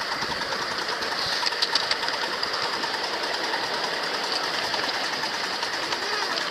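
Small ride-on train running along its track, a steady fast mechanical clatter with a few sharper clicks a little over a second in.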